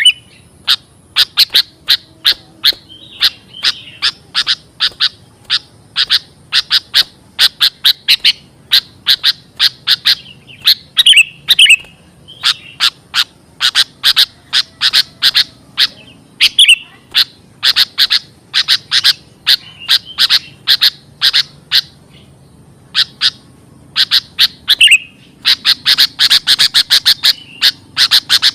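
Sooty-headed bulbul (kutilang) lure call: rapid runs of short, sharp chirps, several a second, broken now and then by a brief slurred warble and one short pause.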